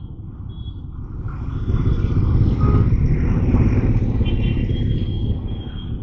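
Road traffic heard from a moving motorcycle: engine and road rumble swell to a peak about two to five seconds in, then ease off, as with a vehicle passing close or the bike pulling away.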